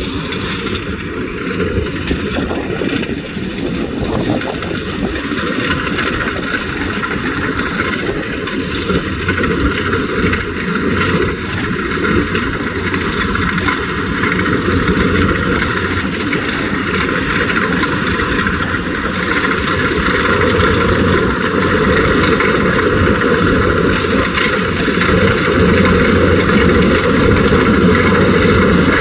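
Kubota DC70 Plus combine harvester running steadily while harvesting rice, a continuous engine and machinery drone that grows gradually louder toward the end.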